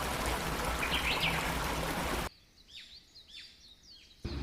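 Rushing water of a waterfall, a steady loud noise with a brief bird chirp about a second in. Just past halfway it cuts off suddenly, leaving a quiet stretch of small birds chirping, several short chirps sweeping downward.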